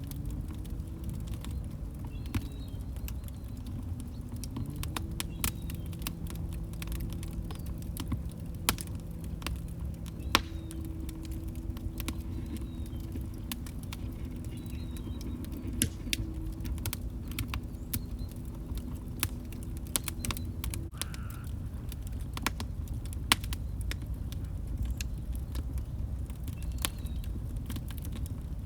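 Wood fire crackling in a fireplace: a dense run of small sharp crackles and pops over a low rumble, with a handful of louder pops. A faint low droning tone sits underneath for the first two-thirds and stops abruptly about 21 seconds in.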